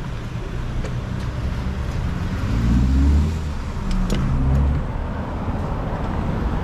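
City street traffic: a car's engine swells and rises in pitch about two and a half seconds in, and again about four seconds in, over a steady low road rumble.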